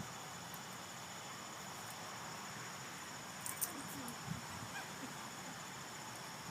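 Quiet outdoor background with a faint, steady high-pitched insect drone, and a few faint clicks about three and a half seconds in.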